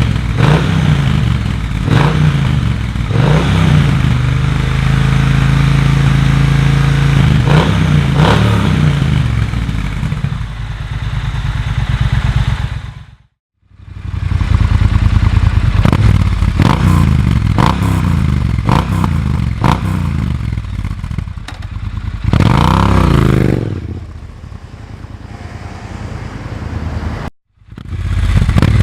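Triumph Bonneville T120's parallel-twin engine through Vance & Hines US-spec exhausts with a de-cat X-pipe, revving up and easing off repeatedly as it is ridden through the gears. The sound drops out abruptly twice, about halfway through and near the end.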